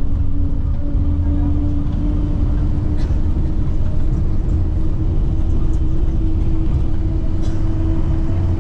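Steady low rumble of a moving vehicle heard from inside, with a constant hum and a few faint clicks.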